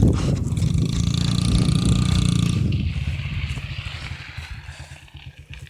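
Dirt bike engine running, loud for the first two and a half seconds or so, then fading away.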